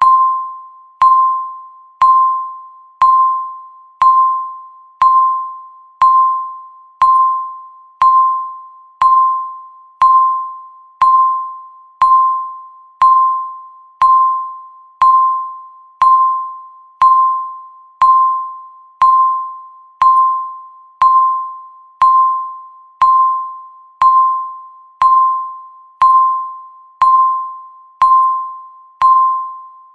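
Countdown timer's electronic tick: a single clear pitched ping once every second, each striking sharply and dying away before the next, in a steady unchanging beat.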